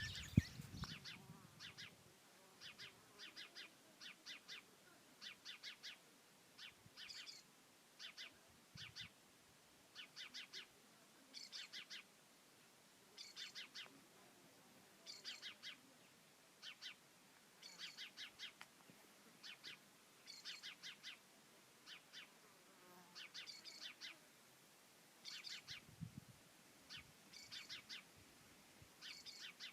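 A small bird chirping faintly and repeatedly: short high-pitched bursts of two to five quick notes, every second or two.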